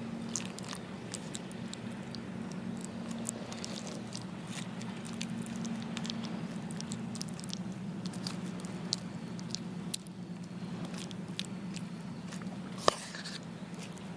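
Wood fire crackling: irregular small pops and snaps, with one louder snap near the end, over a low steady hum.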